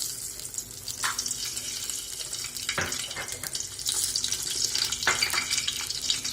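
Whole spices (cinnamon, cardamom, cloves and bay leaf) sizzling and crackling in hot oil in a pan, with a few louder spits about 1, 3 and 5 seconds in. This is the tempering stage: the whole spices are being heated in the oil to release their aroma.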